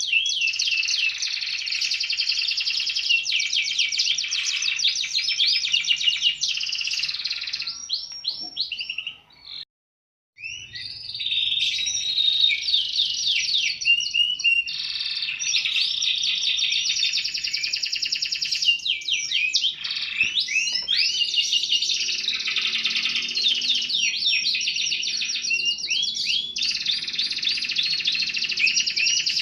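Domestic canary singing a long, loud song of rapid trills and rolls, broken by a silence of about a second a third of the way in.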